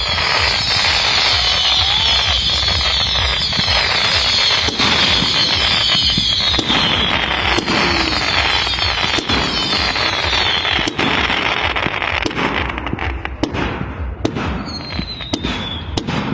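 Fireworks display: a dense, continuous crackle of bursting fireworks with frequent sharp bangs, thinning out over the last few seconds, when a falling whistle is heard.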